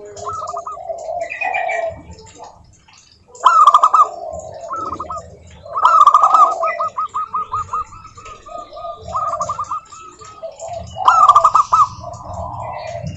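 Zebra doves singing: loud phrases of rapid staccato cooing notes, a new phrase beginning every few seconds, with softer lower coos and chirps between them.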